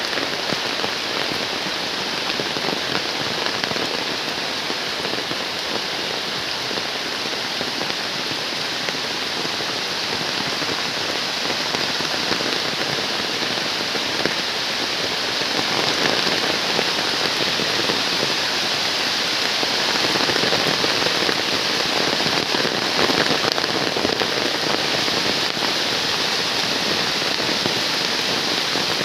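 Heavy rain falling steadily, a dense hiss of drops hitting the ground and surfaces, growing slightly heavier about halfway through.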